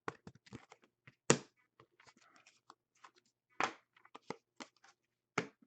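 Trading cards being handled: scattered light clicks and rustles of cards sliding and being set down, with sharper taps about a second in, at about three and a half seconds, and near the end.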